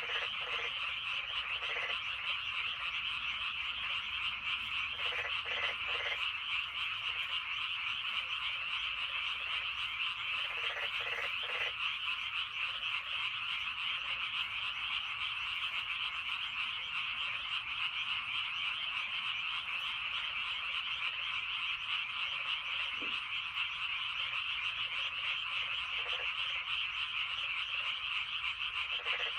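A dense, steady chorus of many frogs calling from a flooded rice paddy, a continuous high trilling din. Now and then a few lower calls stand out briefly from the chorus.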